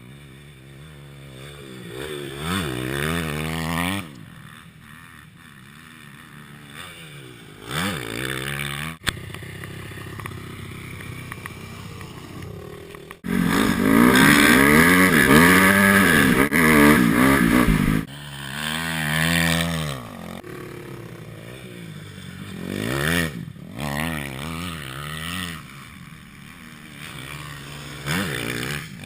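Dirt bike engine revving up and falling back again and again as it is ridden. It is loudest for several seconds around the middle.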